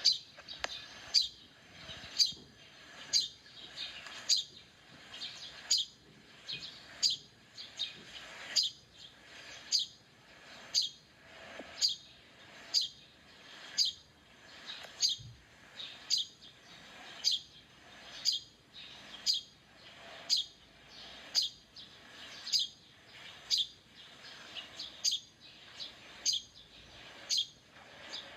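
A bird calling over and over, about once a second, each call a short, high chirp that sweeps downward in pitch.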